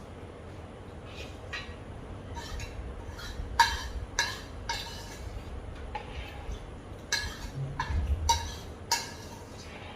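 Cutlery clinking against a bowl while eating: about a dozen short, irregular clinks with a brief ring, the loudest in the second half.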